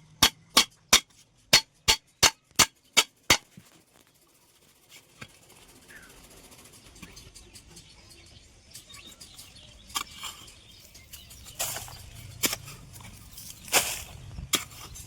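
Hammer blows on a steel hoe blade being forged, about three sharp strikes a second for the first three seconds or so. The second half is quieter, with a few scattered strikes.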